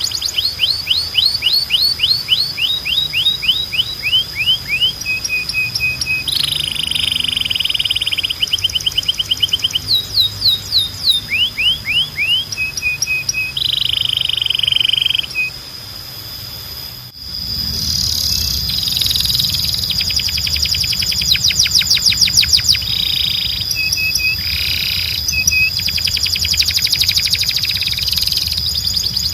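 Domestic canary singing a long song of rapid repeated-note rolls and trills, changing from one phrase to the next, with a brief pause and a sudden break about 17 seconds in. A steady high tone sounds beneath the song.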